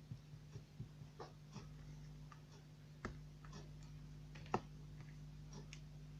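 Faint, irregular small clicks and ticks, a few a second at most, with one sharper click about four and a half seconds in, over a steady low hum.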